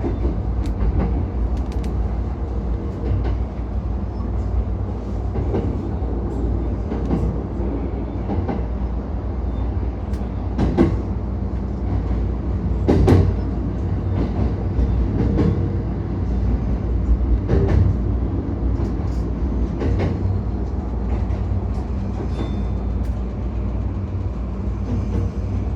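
JR East E235-1000 series electric train running, heard from inside the car: a steady low rumble with irregular clacks from the wheels over the rail, the loudest about eleven and thirteen seconds in.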